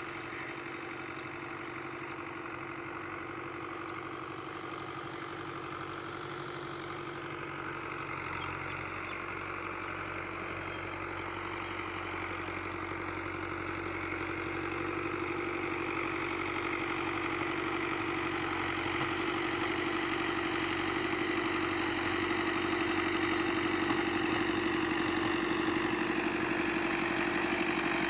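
An engine running steadily at one constant speed, growing gradually louder through the second half.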